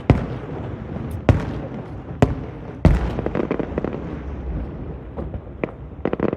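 Fireworks going off: four sharp bangs about a second apart, then a rumbling crackle, and near the end a quick run of short cracks.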